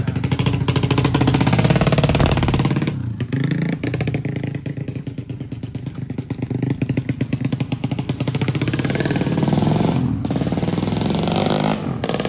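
Tuned racing motorcycle engine running hard and being revved up and down, its firing pulses rapid and even, with brief drops in revs about three seconds in, around ten seconds and just before the end.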